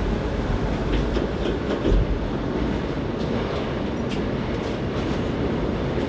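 Hankyu 7300 series electric train running at speed between stations: steady rolling and running noise of the car, with a heavier thump about two seconds in and a few light clicks from the wheels over the track.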